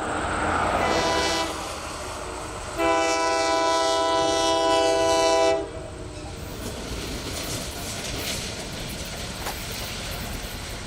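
Diesel locomotive horn: a blast ending about a second and a half in, then a longer, louder blast of about three seconds. After it cuts off, the steady rumble of the passing train.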